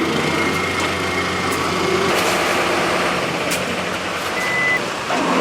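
Heavy construction machine's engine running steadily on a work site, with a few light knocks over it.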